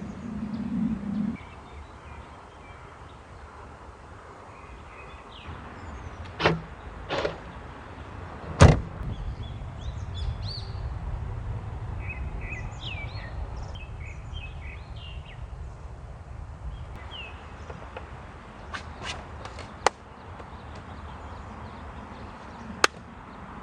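A few sharp knocks and one loud thump about eight and a half seconds in, then light clicks near the end, over a steady low rumble with birds chirping in the middle.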